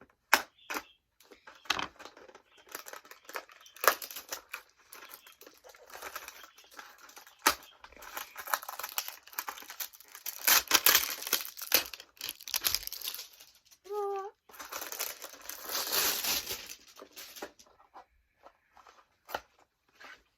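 Toy packaging being torn open and crinkled by hand: irregular rustling and tearing with sharp clicks and snaps, heaviest in two long stretches of handling.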